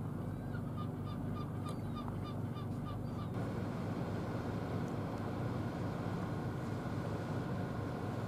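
A bird calls a quick run of about a dozen short, repeated notes, some four a second, that stops about three seconds in. A steady low rumble runs underneath throughout.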